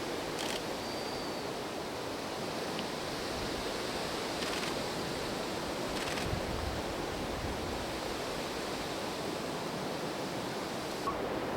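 Wind blowing, a steady rushing noise, with a brief faint high whistle about a second in.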